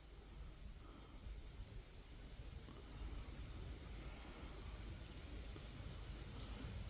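Faint, steady, high-pitched drone of insects calling, over a low rumble.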